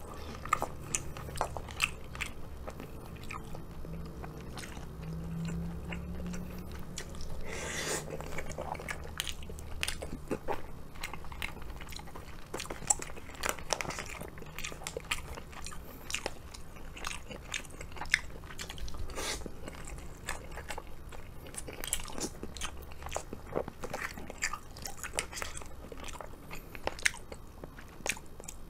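Close-miked eating: chewing mouthfuls of rice and sliced beef from a curry bento, with many small irregular clicks and scrapes of a spoon and chopsticks against the plastic bento tray.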